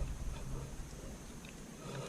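Faint handling noise with a few light clicks as small parts of a cordless impact driver are fitted together by hand.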